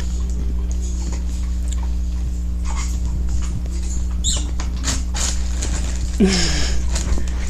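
Lovebird chick rummaging in a food container: scattered scratching, pecking and rustling. There is a short high chirp about four seconds in and a louder falling squeak just after six seconds, over a steady low hum.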